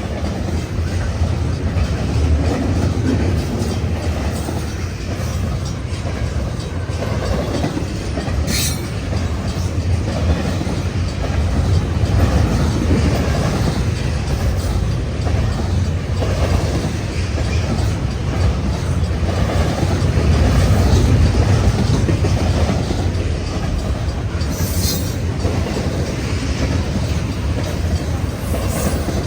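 Freight train cars rolling past, a steady loud rumble with the clickety-clack of wheels over the rails. Brief high-pitched wheel squeals come about 9 seconds in and again near 25 seconds.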